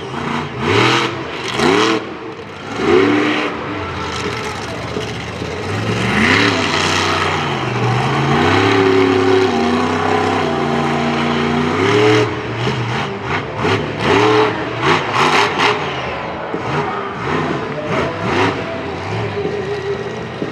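Monster truck engine revving hard while the truck drifts, its pitch sweeping up and down again and again. It holds at high revs for a few seconds midway, with short sharp crackles in the second half.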